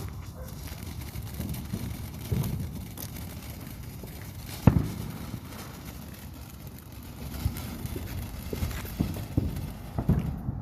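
Scattered firework bangs and pops at irregular intervals, the sharpest crack about halfway through and a quicker run of them near the end, over a steady low rumble.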